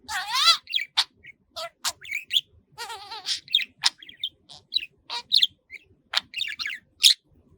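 Pet budgerigar chattering: a quick run of short chirps and clicks, broken by two longer warbling phrases that waver in pitch, near the start and about three seconds in.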